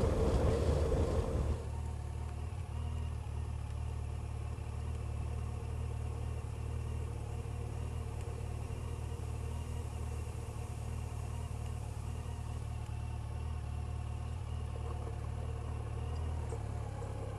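Motorcycle engine slowing to a steady idle. The louder riding and wind noise drops away about a second and a half in, leaving an even, unchanging idle.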